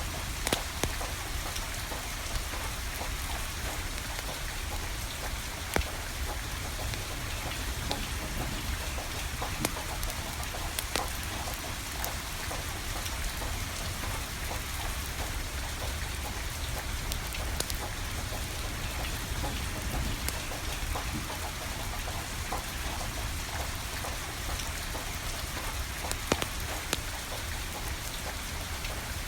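Steady rain falling, with a wood fire crackling through it in scattered sharp pops.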